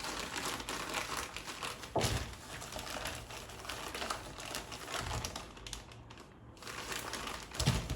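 Plastic packaging crinkling and rustling as food containers and bags are handled, with a soft knock about two seconds in and another near the end.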